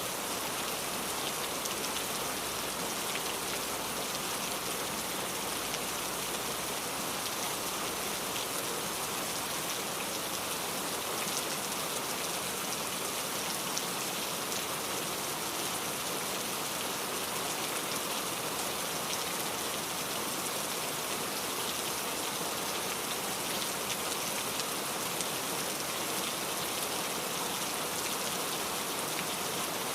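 Steady rain falling, with individual drops pattering on a surface in a constant even hiss.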